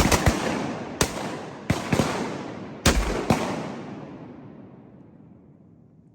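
A volley of shotgun blasts from several duck hunters firing together: about seven shots in the first three and a half seconds. Each blast leaves a long, rolling echo that fades out over the following couple of seconds.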